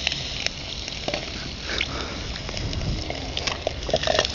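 Water sizzling and boiling on the overheated field windings of a burnt-out bench grinder motor: a steady hiss with scattered crackles and pops, and a few short squeaks near the end. The sound is a sign of how hot the failed windings still are.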